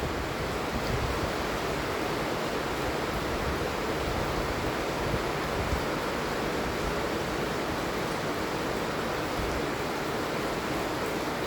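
Steady heavy rain falling, an even hiss that does not change.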